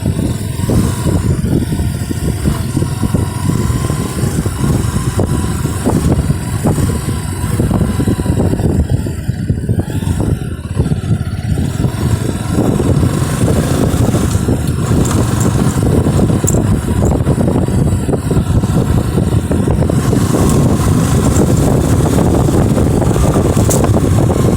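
Motorcycle engine running steadily while the bike is ridden, with the level rising a little toward the end.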